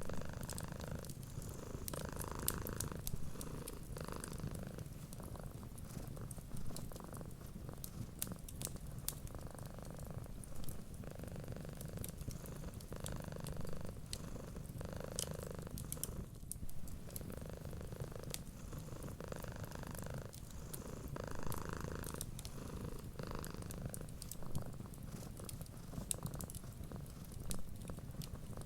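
Domestic cat purring steadily, swelling and easing with each breath every couple of seconds, over the sharp small crackles of a wood fire.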